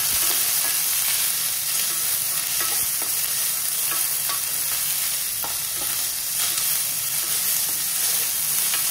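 Chopped onions, ginger and garlic sizzling steadily in hot oil in a pan while being stirred, with light scrapes against the pan now and then.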